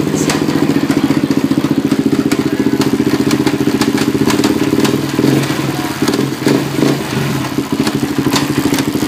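Arctic Cat DVX 400 quad's single-cylinder four-stroke engine running, with sharp ticks scattered over the engine note. The engine note wavers and dips unevenly for a couple of seconds past the middle. This is the weird noise the owner hears from the quad, mainly in second gear.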